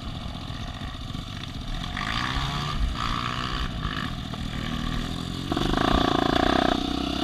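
Off-road vehicle engine running and revving, its pitch rising around two seconds in and getting louder from about five and a half seconds in.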